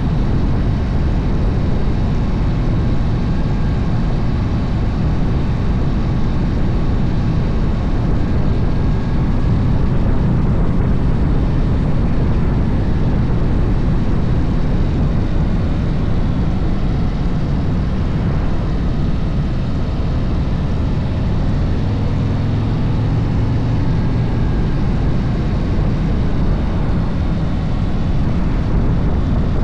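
Harley-Davidson motorcycle running steadily at road speed, its low engine rumble mixed with constant wind rush on the microphone.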